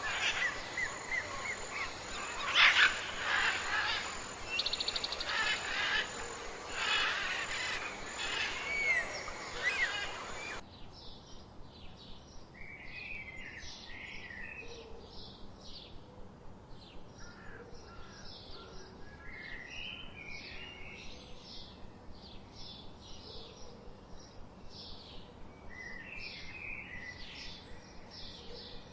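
Wild birds singing and calling, several birds chirping with quick up-and-down notes. About ten seconds in it changes abruptly to a quieter recording of evenly repeated short calls, with occasional clusters of chirps.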